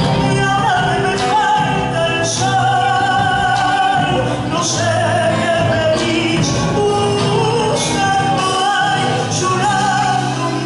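Argentine folk song: a singer holding long, slightly wavering notes over instrumental accompaniment, with light percussion strokes every second or two.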